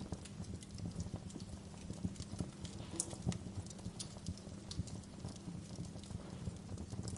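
Wood fire crackling, with irregular sharp pops and snaps over a steady low rumble of the flames; the loudest pops come about three and four seconds in.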